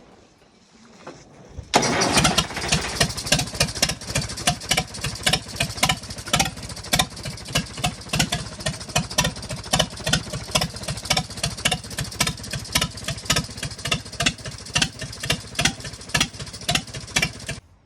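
Old diesel tractor engine started on a newly fitted starter solenoid, catching suddenly about two seconds in and then running with an even, rapid knock of about four beats a second, until it cuts off abruptly near the end.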